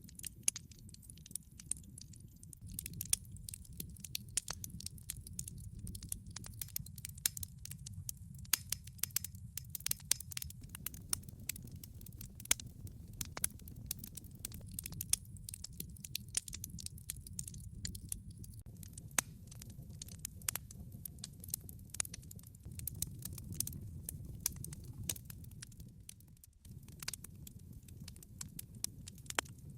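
Log fire burning in a fireplace: irregular sharp crackles and pops of burning wood over a low, steady rumble of the flames.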